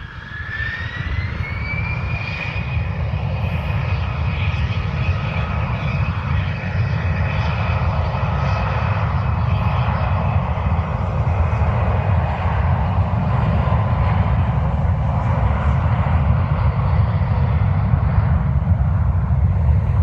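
Gulfstream G650's twin Rolls-Royce BR725 turbofan jet engines spooling up for takeoff: a whine rises over the first two seconds, then holds steady over a deep rumble that grows gradually louder.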